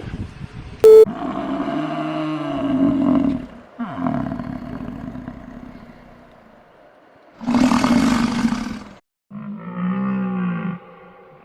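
A large wild animal roaring in a series of long, low calls, with a sharp click about a second in.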